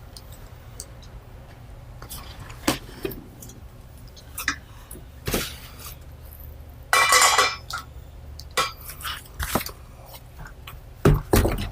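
Garage door opener parts and packaging being handled and set aside, giving scattered clinks and knocks, a longer metallic clatter about seven seconds in and a heavy thump near the end, over a low steady hum.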